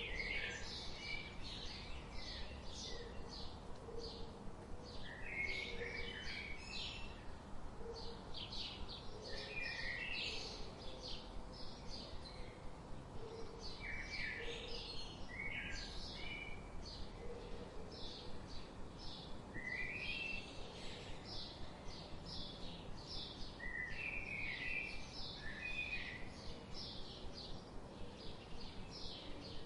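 Songbirds chirping and singing: quick high chirps repeat throughout, with lower warbled phrases every few seconds. Soft low notes repeat every second or two under them, over a steady outdoor background hiss.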